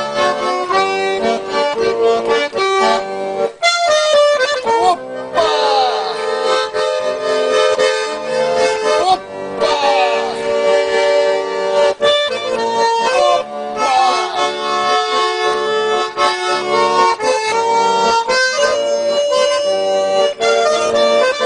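A garmon, a Russian button accordion, playing an instrumental passage: sustained chords under a moving melody, with no singing.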